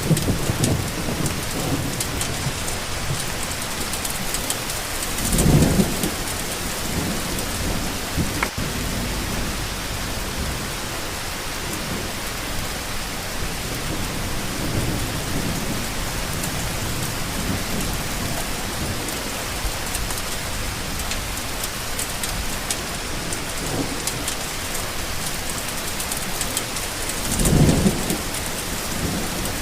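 Steady rain hissing, with two brief low rumbles, one about five seconds in and one near the end.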